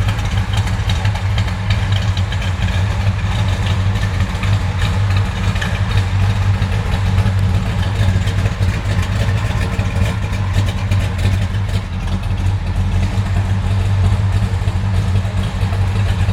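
A 1967 Chevrolet Chevelle SS's big-block V8 idling steadily, loud and low-pitched, without revving.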